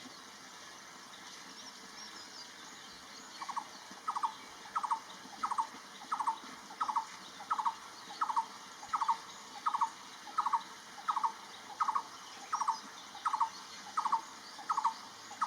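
Brown-headed barbet calling: a steady, rhythmic series of short, low-pitched, two-part notes, about three every two seconds, starting a few seconds in.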